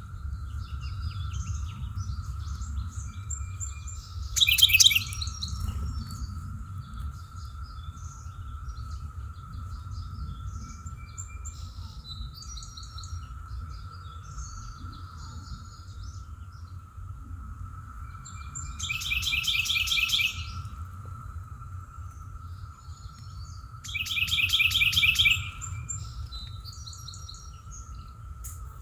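Several birds chirping, with one bird singing a short, fast trill three times: about four seconds in, about two-thirds of the way through, and again a few seconds later. Under the birds run a steady thin high hum and a low rumble.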